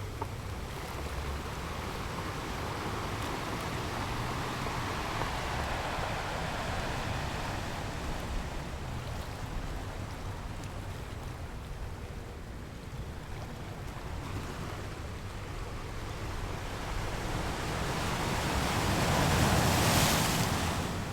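Sea surf washing onto a sandy beach: a steady rush of breaking waves that swells twice, loudest near the end as a bigger wave breaks.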